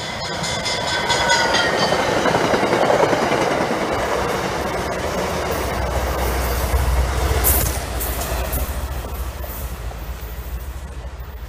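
A push-pull commuter train with a cab car leading passes close by at speed. Several high tones fall in pitch in the first two seconds. The wheels clatter over the rails, a deep rumble builds about halfway through, and the sound fades as the train moves away.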